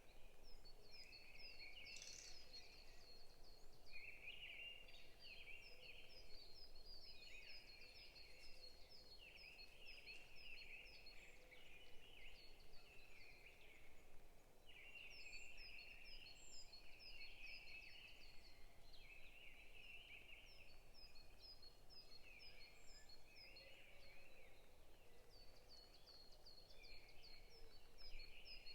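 Faint forest birdsong: several birds singing together, with repeated fast runs of short, high chirps over lower chattering calls that come in bursts of a second or two.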